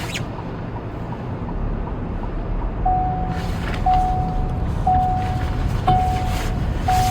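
A vehicle's warning chime beeping about once a second, one steady tone each time, starting about three seconds in, over the low rumble of the vehicle. A rushing noise grows louder at about the moment the beeping starts.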